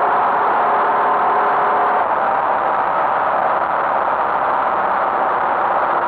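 Tractor engine running steadily, heard as a dense, even rushing noise with a few faint steady tones; the sound shifts slightly about two seconds in.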